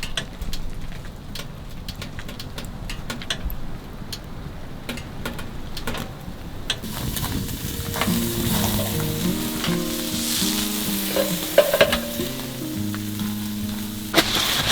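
Beef short ribs sizzling over a wood-stove fire, with scattered sharp crackles; about seven seconds in the sizzling thickens into a steady hiss. Background music comes in soon after.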